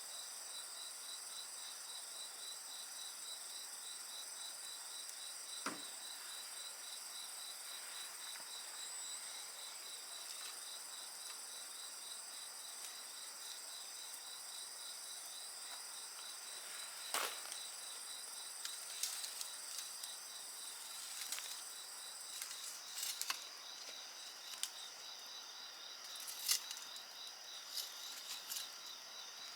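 Insects calling steadily over a wood fire: a rapidly pulsing chirp and several higher continuous trills. The fire crackles with a single pop about six seconds in, another around seventeen seconds, then frequent snaps and crackles through the second half.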